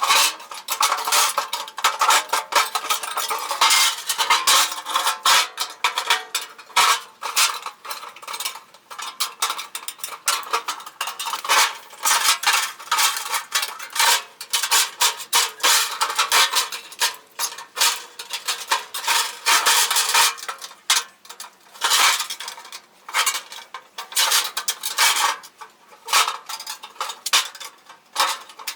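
Thin metal clattering and scraping: many quick irregular clinks and scrapes, going on with only brief pauses.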